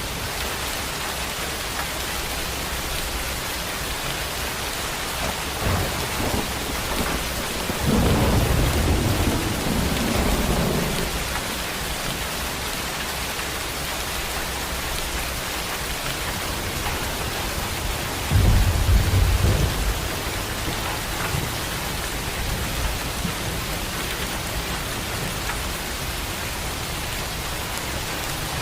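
Heavy rain falling steadily, with a long roll of thunder building about six seconds in and fading by about eleven, then a shorter, louder crack of thunder about eighteen seconds in.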